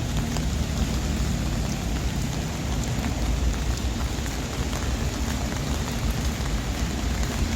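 Steady rain falling on a city street, a constant hiss with a few faint drop ticks, over a low rumble.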